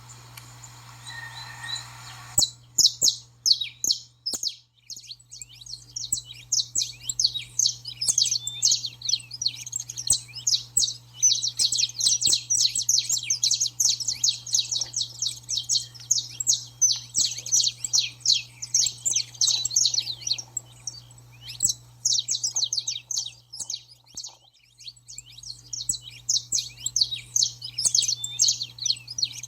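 Saffron finch giving its fast, chattering 'baderna' song: a dense run of very rapid high chirps that begins about two seconds in. The song breaks off briefly about three-quarters of the way through, then resumes, over a steady low hum.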